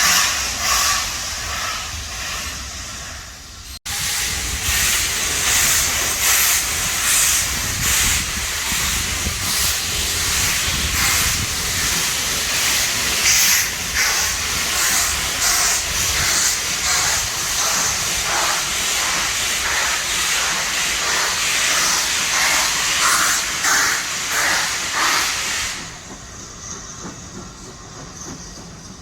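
Steam locomotive pulling out of a station: loud steam hiss with repeated exhaust chuffs, dropping away sharply near the end.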